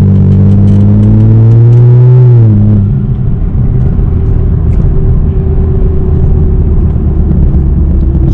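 BMW E92 335i's turbocharged inline-six exhaust pulling under load, its pitch climbing slightly and then dropping away sharply about two and a half seconds in. After that it settles into a steady low rumble with road noise.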